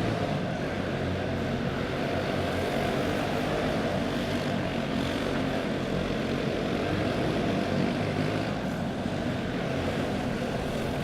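A pack of racing karts with single-cylinder four-stroke clone engines running at speed together, a steady, buzzing drone.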